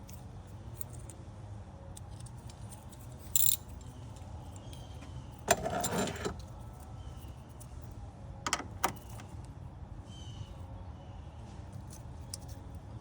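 Metal hand tools and small metal parts clinking and rattling while fasteners are being removed, a few separate jingles and two sharp clicks over a steady low hum.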